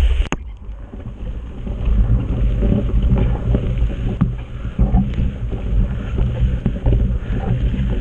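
Mountain bike rolling over rough trail, with wind rumbling on the microphone and scattered knocks and rattles from the bike.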